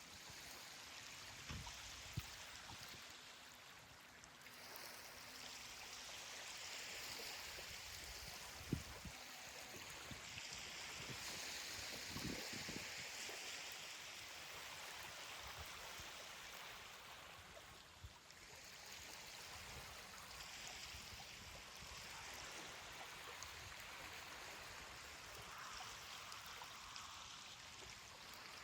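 Ocean surf washing onto a beach: a faint hiss of breaking water that swells and fades several times, with a few short low thumps.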